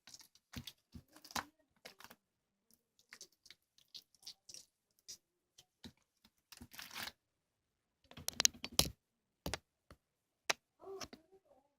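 Slime mixed with clay being squeezed and pressed by hand, giving irregular sticky clicks, pops and crackles. A louder flurry of crackling comes about eight and a half seconds in.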